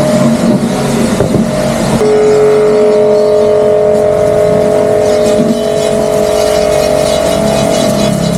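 Pressure washer running steadily, its motor and pump humming under the hiss of the water jet, washing out a cut steel gas cylinder. A second, lower hum tone joins about two seconds in.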